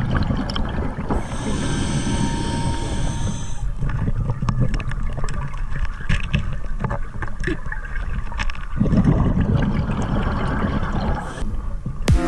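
Scuba diver breathing underwater through a regulator: a hissing inhalation a little after the start, and later a low rumble of exhaled bubbles lasting about two seconds. Small clicks and knocks run throughout.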